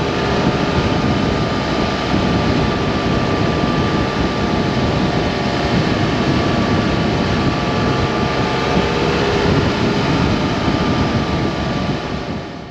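2015 BMW F800GT motorcycle ridden at a steady speed: a constant rush of wind over the engine's hum. It cuts off suddenly near the end.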